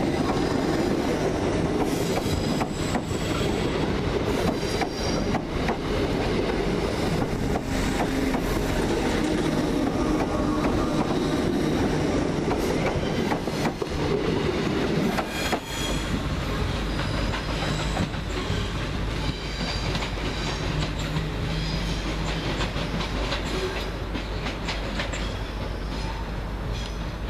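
Royal Mail Class 325 electric multiple unit moving past close by, its wheels clattering over the rail joints with a busy rolling noise. After about sixteen seconds the clatter falls away to a quieter, steady low rumble as the train draws off.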